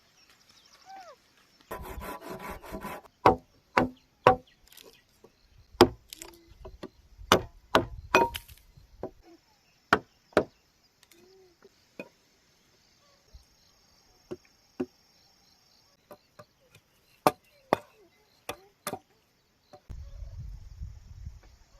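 Irregular sharp chopping strikes on bamboo, about one or two a second, with a short burst of scraping about two seconds in. A faint steady insect drone runs underneath.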